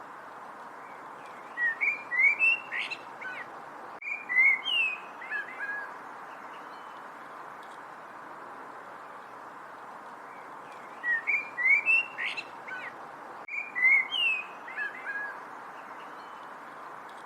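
A songbird singing a short phrase of quick, slurred whistled notes, then the same phrase again about ten seconds later, over a steady background hiss.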